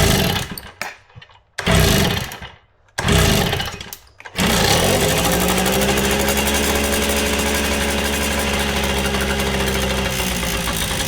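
Kawasaki KD80's 80cc two-stroke single being started cold on choke. Three short bursts each die away within about a second, then about four seconds in the engine catches and runs steadily.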